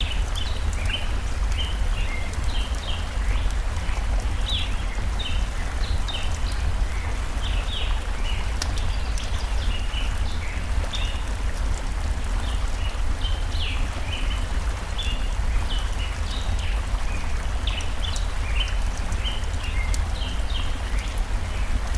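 Steady rush of a forest stream, with small birds chirping over it again and again and occasional sharp crackles from a campfire.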